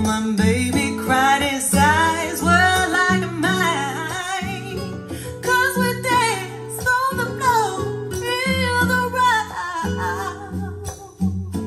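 A song with a singing voice over plucked guitar and steady bass, played back through Sound Dynamics RTS-3B-1 bookshelf loudspeakers.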